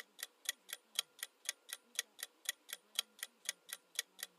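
Countdown-timer sound effect: a clock ticking steadily, about four ticks a second.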